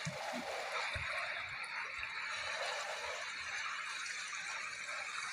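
Steady rush of sea waves washing in, with a few soft low thumps in the first two seconds.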